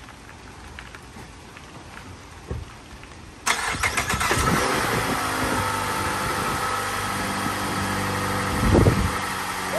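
Supercharged Mazda3 2.5-litre Skyactiv-G four-cylinder being started about three and a half seconds in: it cranks briefly and catches, then settles into a steady idle, with one brief louder surge near the end. This is the engine's start after the supercharger install and coolant refill.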